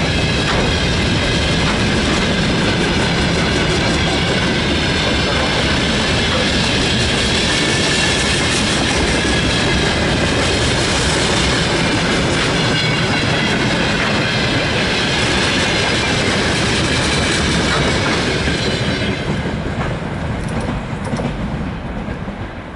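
Freight train wagons rolling past at speed: a continuous loud rumble and clatter of wheels over the rails, with a faint high squeal from the wheels. Near the end the sound drops away as the last of the train goes by.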